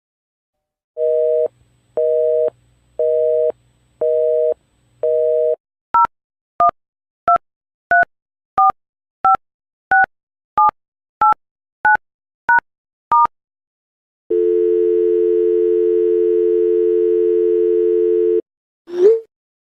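Telephone line tones: a busy signal beeping five times about once a second, then about a dozen quick touch-tone dialing beeps of changing pitch, then a steady dial tone for about four seconds. Near the end a short rising-and-falling alarm whoop begins.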